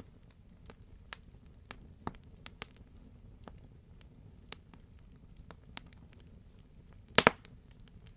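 Campfire crackling: scattered sharp snaps and clicks of burning wood over a low steady rumble, with a loud double pop about seven seconds in.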